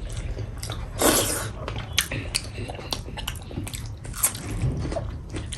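Close-miked eating sounds: chewing, biting and wet mouth clicks as food is eaten, with a louder noisy burst about a second in.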